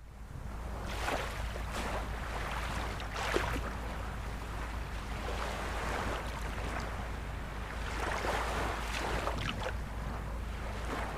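Ocean surf washing in: a steady rushing with a low rumble underneath. It fades in at the start and swells louder about a second in, about three seconds in, and again around eight to nine seconds.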